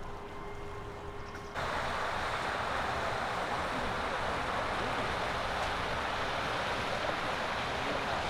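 A car's steady road and wind rushing noise, heard while driving, which cuts in suddenly about a second and a half in. Before it there is a quieter steady hum.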